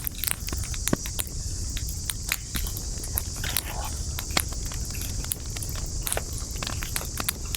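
Wood campfire burning, with many irregular sharp crackles and pops over a low rumble of flame, and a steady high-pitched hiss behind it.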